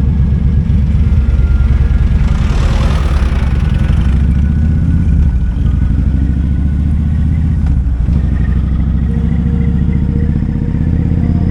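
Kawasaki Vulcan 2000's big V-twin engine running steadily at low revs, with a deep, even exhaust note. A brief rushing noise swells and fades about two to four seconds in.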